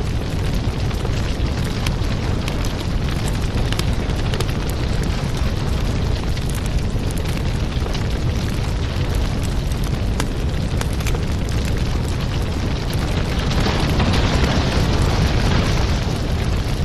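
Wood fire in a fireplace crackling, with frequent sharp pops over a steady low rumble of burning. A brighter hiss swells for a couple of seconds near the end.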